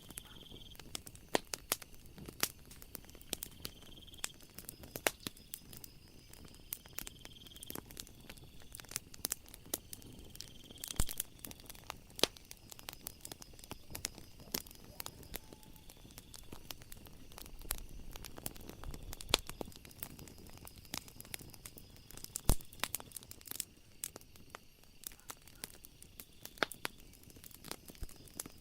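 Wood fire crackling: irregular sharp pops and snaps over a low steady hiss, with two louder pops about eleven and twenty-two seconds in. A faint high chirp recurs every few seconds in the background.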